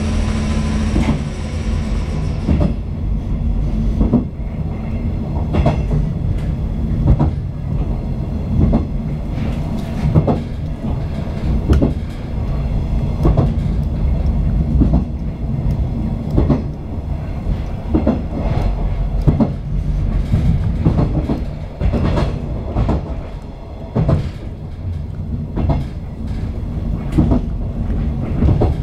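A 485-series electric train running, heard from inside the rear cab: a steady low rumble with the wheels clicking over rail joints, often in pairs every second or two. A steady tone fades out in the first few seconds.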